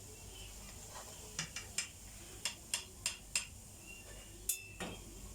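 A metal spoon clinking and tapping against a kadhai of frying oil, in light knocks, some in quick pairs, as fried gulab jamun are lifted out.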